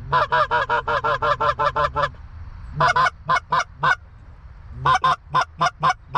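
Canada goose honks and clucks in quick, even runs: about a dozen clucks in the first two seconds, a shorter run of five, then another run near the end. They are called at a flock of geese gliding in to land.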